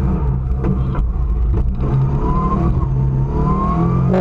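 Rally car engine heard from inside the cabin, running hard under acceleration, its pitch climbing steadily over the second half.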